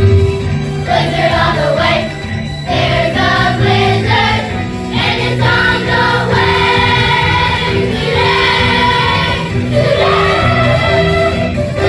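Children's school chorus singing in unison over instrumental accompaniment, holding long sustained notes through the middle of the phrase.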